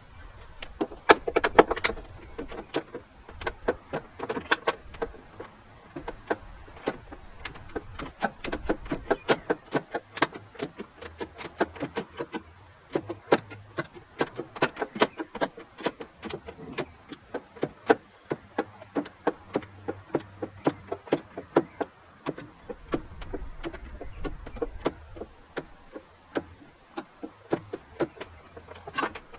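Ratchet wrench clicking in quick runs, stroke after stroke, as a stubborn bolt is slowly worked off.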